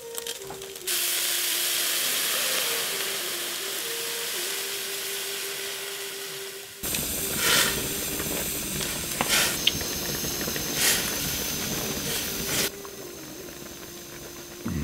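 Egg and greens sizzling loudly in a hot steel wok, the hiss starting suddenly about a second in. From about halfway the frying grows fuller, with sharp clicks of chopsticks stirring against the wok, and it eases off near the end.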